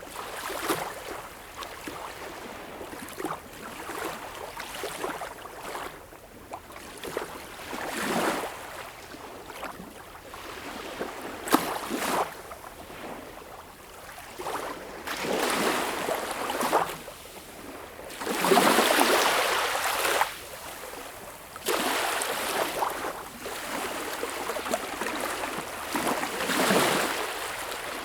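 Sea waves washing in, swelling in repeated surges every two to four seconds over a steady hiss of moving water.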